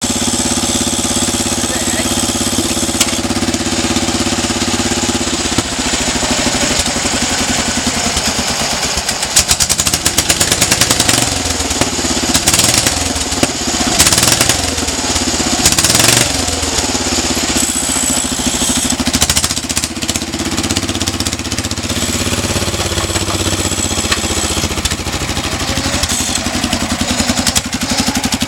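Engine exhausting through a newly fitted vertical stack exhaust, which replaced a stock exhaust clogged with 34 years of soot. It idles steadily with a rough, pulsing note, is revved up several times between about 9 and 17 seconds in, then settles back to idle.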